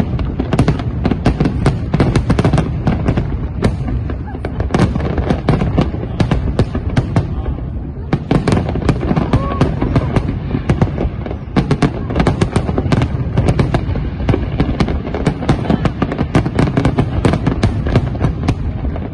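Fireworks display: a rapid, continuous run of aerial shell bursts, many sharp cracks and bangs a second over a steady low rumble.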